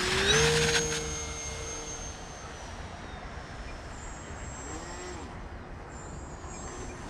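Electric motor and propeller of a 1.5 m RC model plane whining at full power on takeoff. The pitch rises slightly just after the start and then holds, and the sound fades over the first couple of seconds as the plane climbs away, staying faint with small pitch changes as it passes.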